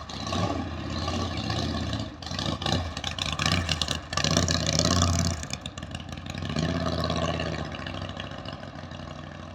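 Motorbike engine running and revving, its level rising and falling, loudest about halfway through, with a second swell a couple of seconds later.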